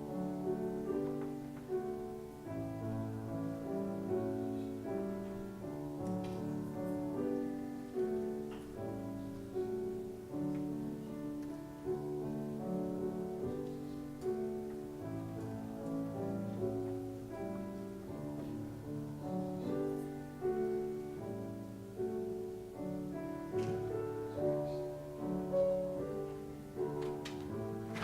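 Solo piano playing a slow piece in chords, each chord struck and left to fade before the next.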